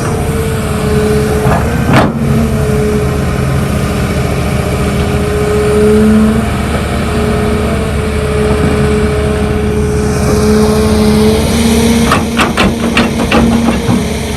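Heavy earthmoving machinery's diesel engine running steadily under load, with a sharp knock about two seconds in and a rapid run of knocks and clanks near the end.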